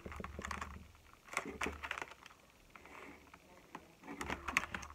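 Plastic and cardboard toy packaging being handled and pulled at: scattered soft rustles and light clicks.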